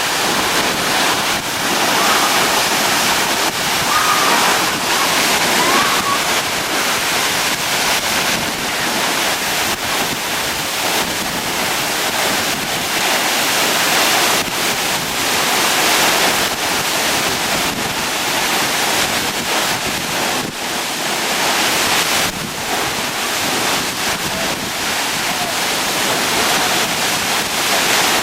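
Steady, loud rush of a waterfall and its river water, an even roar with no breaks.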